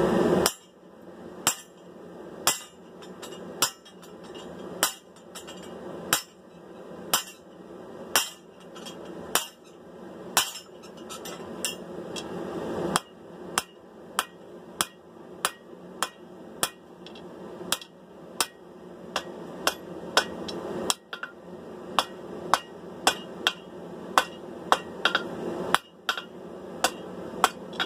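Blacksmith's hand hammer striking hot steel on the anvil, drawing down a sword's tang. The blows come about one a second, then quicken to about two a second from about halfway. Each blow rings briefly.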